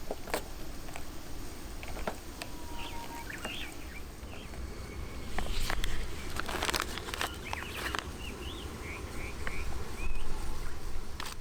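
Small birds chirping in short, quick calls, one cluster a few seconds in and a run of them near the end, over a steady low rumble with scattered sharp clicks and knocks.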